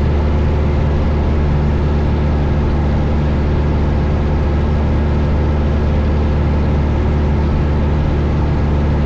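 Steady drone of a 1972 Cessna 172 Skyhawk's four-cylinder Lycoming engine and propeller, heard from inside the cabin during a descent, with a deep even hum under a wash of engine and air noise.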